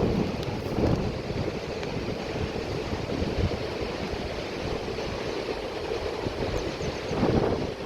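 Rushing mountain river water, a steady wash of noise that swells louder briefly near the end.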